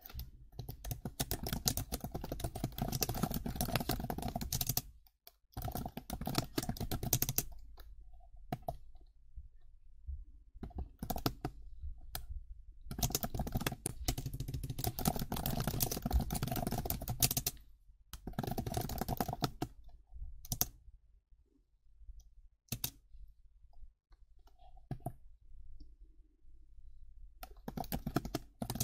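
Hard, fast typing on a computer keyboard: dense runs of keystrokes lasting a few seconds each, broken by pauses with only scattered single key presses.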